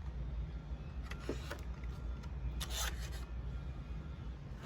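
A steady low hum with a few soft rustles and light knocks, about a second in and again near the three-second mark, as food packages are handled inside a refrigerator.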